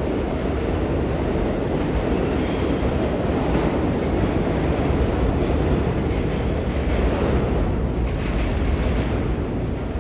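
Bombardier R179 New York City Subway train running through an underground station: a steady loud rumble of wheels on rails, with a brief sharper noise about two and a half seconds in.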